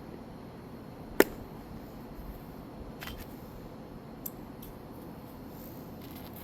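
A single sharp strike about a second in, a roofing nail being driven into an asphalt shingle, followed by a couple of faint clicks.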